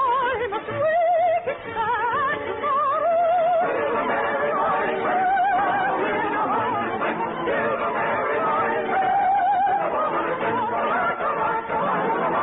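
Operatic solo singing with a wide, regular vibrato over orchestral accompaniment, in a narrow-band vintage radio recording.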